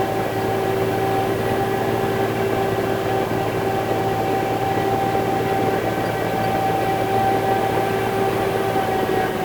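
Concrete mixer truck's diesel engine running steadily, with a constant whine held on one pitch over the engine note.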